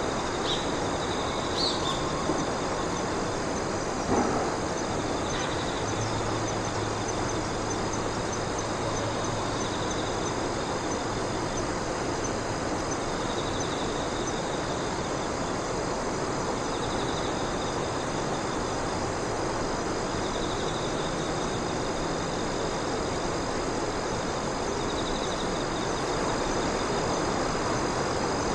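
Night insects calling: a steady high trill with short bursts of chirping that recur every few seconds, over a constant broad outdoor hiss. A single sharp click about four seconds in.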